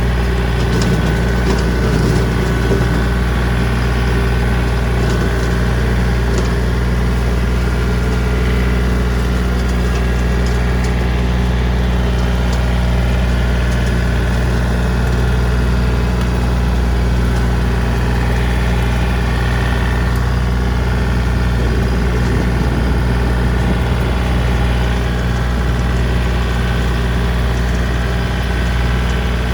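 John Deere 3025D compact tractor's three-cylinder diesel engine running steadily under load while driving a PTO-powered rotary cutter (brush hog) in first gear, low range. The engine note stays even throughout.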